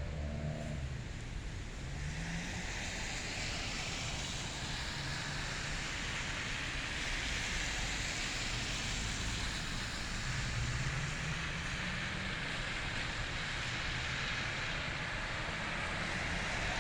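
Road traffic in a snowstorm: a steady hiss of tyres, with a low engine hum rising briefly near the start and again about two-thirds of the way through.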